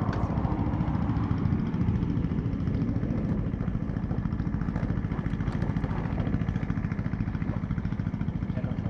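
BMW R1200GS flat-twin motorcycle engine running steadily with an even pulse.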